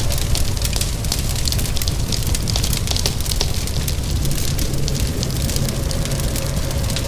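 Crackling wood fire with many small, quick pops and snaps, layered over steady rain and a low rumble.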